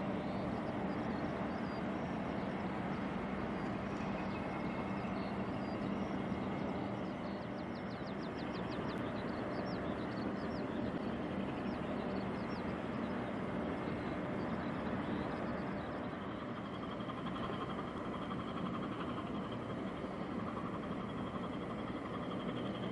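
Steady low hum and rumble of the container ship's engine as it comes into port, holding an even pitch. Birds chirp now and then, with a quick trill about eight seconds in.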